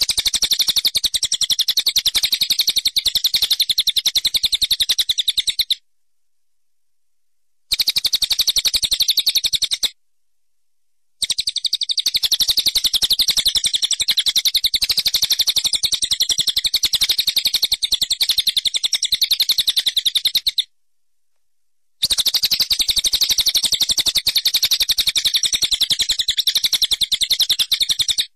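Bird chirping: a fast, even, high-pitched twitter that cuts off abruptly into dead silence three times, each gap lasting one to two seconds.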